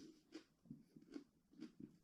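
Faint, soft crunching strikes repeating about two to three times a second, slightly unevenly.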